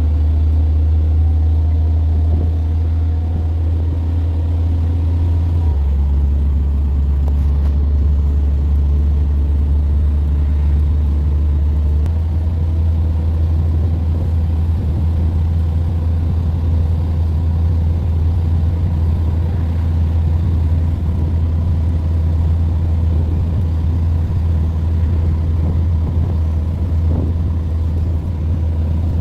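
Moving bus: a steady, deep drone of engine and road noise that shifts in pitch about six seconds in and again about twelve seconds in.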